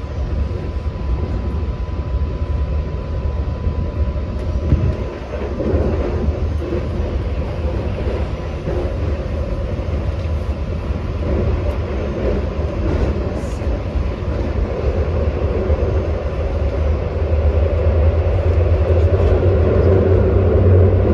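Long Island Rail Road commuter train running at speed: a steady rumble of wheels on rail with occasional clicks and knocks, growing louder in the last few seconds. A thin steady whine sounds for the first four seconds or so.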